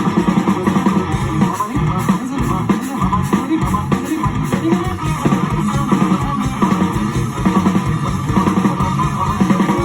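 Live instrumental music led by guitar, with quick plucked notes over a bass line.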